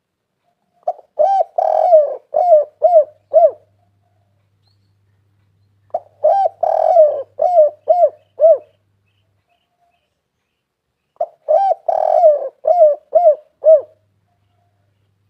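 Spotted dove (tekukur) singing its cooing song, loud and close: three phrases about five seconds apart, each a run of six or seven quick arched coos.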